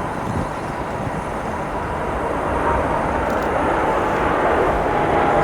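Jet airliner engines running nearby, a steady roar with a faint whine, growing gradually louder.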